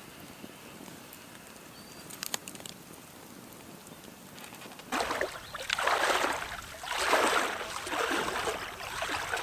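Water splashing and sloshing in repeated surges, starting about halfway through after a quiet stretch with a few faint clicks.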